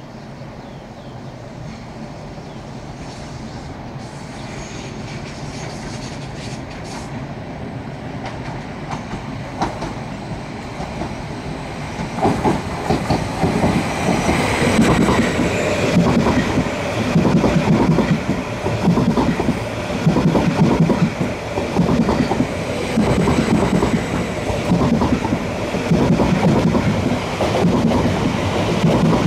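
A train approaching, growing steadily louder over about twelve seconds, then passing close by with a loud, rhythmic clatter of wheels over the rail joints.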